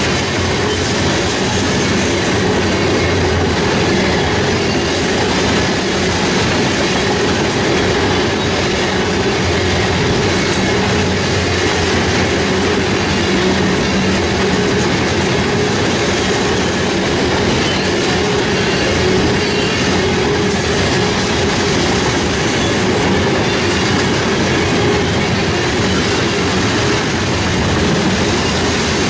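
Tank cars of a freight train rolling past close by: a steady, loud rumble of steel wheels on rail.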